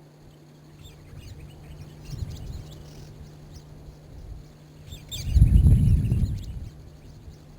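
Wild birds chirping in short high calls and quick sweeps, over a steady low hum, with a brief loud low rumble about five seconds in.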